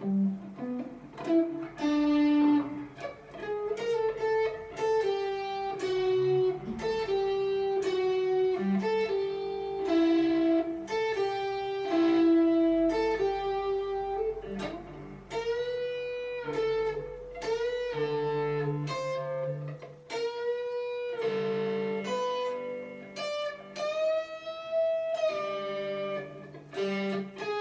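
Guitar playing a single-note lead phrase, picked note by note, with one note bent upward near the end.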